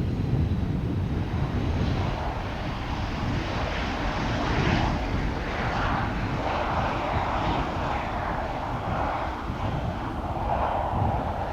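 Jet airliner on approach to land, its engines making a steady rushing jet noise.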